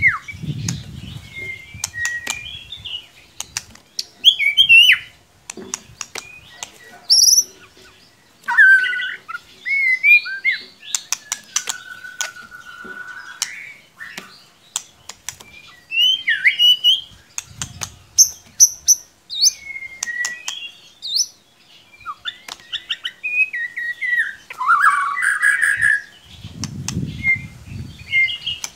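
White-rumped shama (murai batu) singing a varied run of whistles and rapid chirps, sliding up and down in pitch, with sharp clicks between phrases. A low thumping sound comes in near the end.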